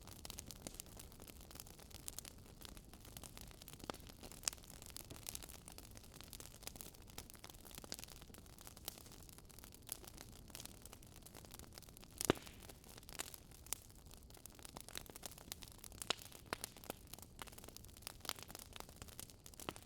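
Wood fire crackling: irregular sharp pops and snaps over a soft low rumble, with one louder pop about twelve seconds in.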